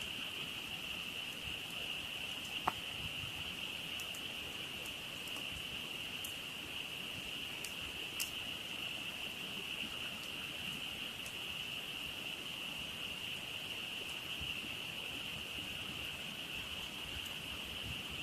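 Frog chorus: a dense, steady calling that never lets up, with a campfire crackling now and then in short pops, the sharpest about three seconds and eight seconds in.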